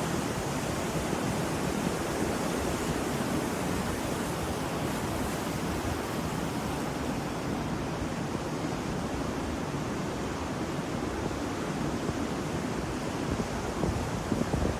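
Ocean waves washing onto a shore, a steady rushing surf that swells slightly near the end.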